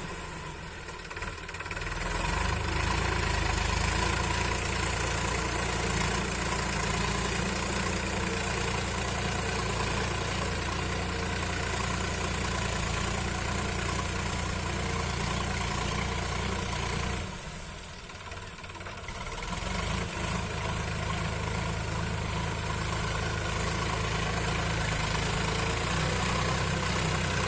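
Sonalika tractor's diesel engine running steadily, its sound dipping briefly twice, near the start and about two-thirds of the way in.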